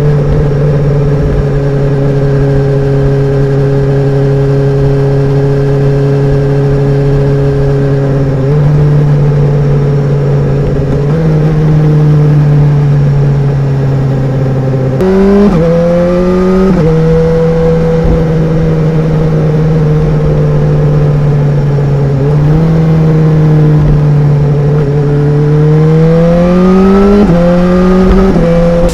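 2016 BMW S1000R's inline-four engine running at steady revs while riding, with brief rises and drops in pitch from throttle and gear changes about halfway through. Near the end it accelerates, the pitch climbing, dropping once at a shift and climbing again.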